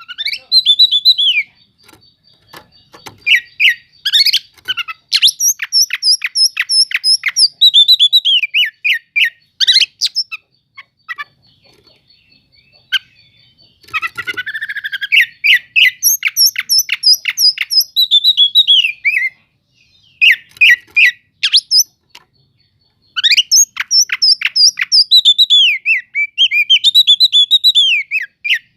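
Oriental magpie-robin (kacer) singing loudly. Its varied phrases mix whistled glides, a thin high held note and fast strings of repeated chips, broken by short pauses.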